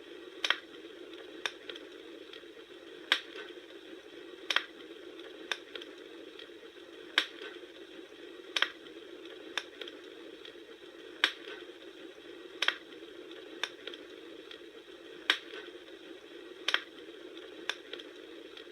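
Wood fire crackling: sharp pops every second or so over a steady hiss, in an evenly repeating pattern.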